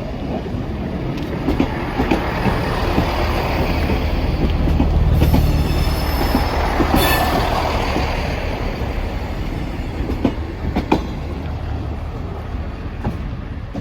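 Passenger service train running past, its wheel and engine noise building to a peak about five seconds in and then fading, with sharp clicks as wheels cross rail joints and some wheel squeal.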